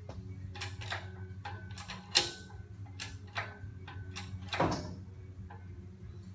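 Irregular clinks and knocks of hand tools and metal parts being worked on during an engine removal, over a steady low hum. The loudest knocks come about two seconds in and just past the middle.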